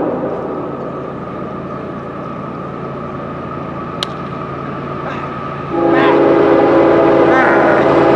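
Locomotive air horn sounding a chord of several notes: one blast cuts off right at the start, the train rumbles on steadily, and a long loud blast begins about six seconds in.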